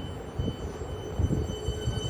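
Electric suburban train running past: a low rumble of wheels on rails growing steadily louder, with steady high-pitched whining tones over it.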